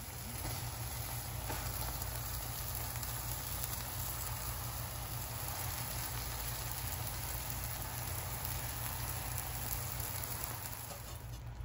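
Onion-tomato-capsicum bhaji base sizzling steadily in butter and oil in a stainless steel pan: an even crackling hiss.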